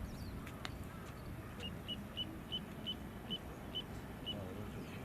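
Little ringed plover giving a series of eight short, high, evenly pitched peeps, about three a second, over a steady low background rumble.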